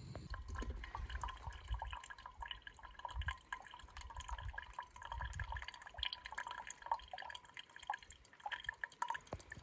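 Water heating for coffee in a pot on a camp stove, full of rapid small pops and ticks as bubbles form while it nears the boil.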